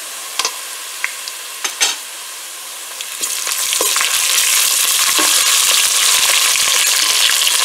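Ginger-garlic paste and golden-brown onions sizzling in hot oil in a steel pot, with a plastic spatula knocking against the pot a few times in the first two seconds. About three seconds in, the sizzling gets much louder as the paste is stirred into the oil.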